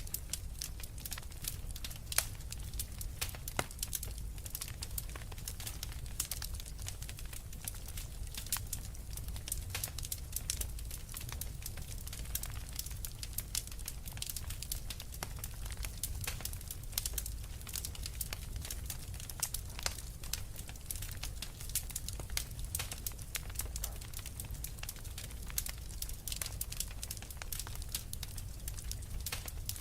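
Wood fire in a fireplace crackling: many irregular sharp pops and snaps over a low steady rumble of burning logs.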